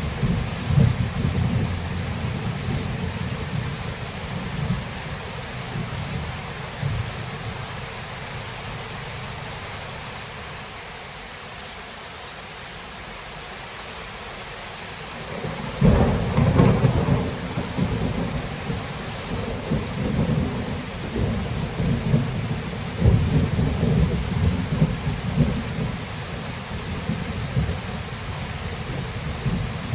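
Thunderstorm: steady rain falling with thunder rumbling. The rumble dies down over the first several seconds, then a louder thunderclap breaks about halfway through and rolls on in uneven rumbles.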